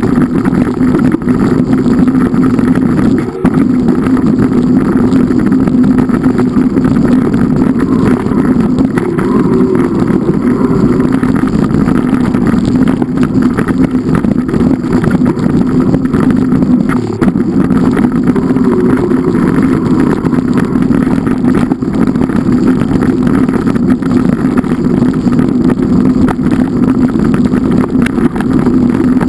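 A loud, steady engine drone that does not let up.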